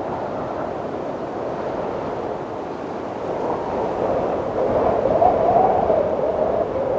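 Wind blowing steadily, with a hollow, wavering whistle that swells into a stronger gust about two-thirds of the way through and eases near the end.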